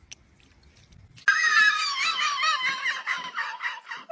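A dog giving a loud, high-pitched, wavering scream-like cry, starting about a second in and going on without a break.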